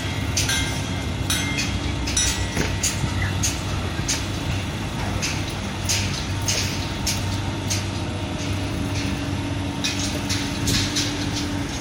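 Heavy diesel construction machinery running steadily, with irregular metallic clanks and clicks over the engine drone.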